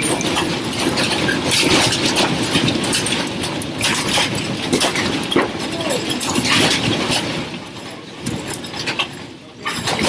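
Rattling and rumbling of a building shaking in an earthquake, with many clicks and knocks of loose objects; it eases off near the end.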